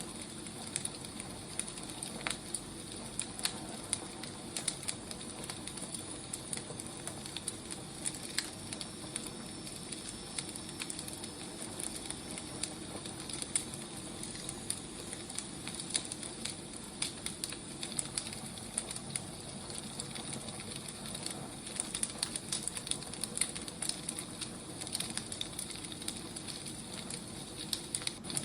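Firewood burning, a steady soft hiss with frequent irregular sharp crackles and pops.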